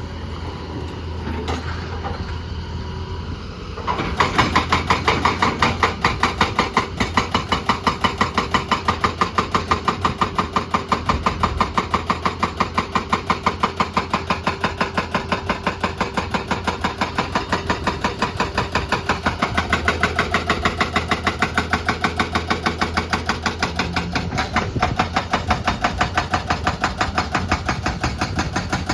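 Heavy machinery running: a steady engine hum, then about four seconds in a loud, regular pounding starts, about three beats a second, and keeps going.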